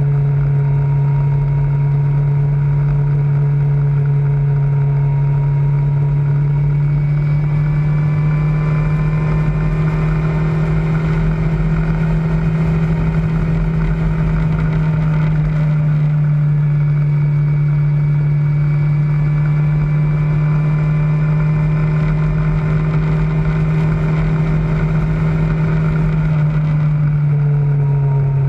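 Kawasaki ZZR600's inline-four engine running at a steady cruising speed, with wind rushing past. The engine note drops slightly near the end as the revs ease off.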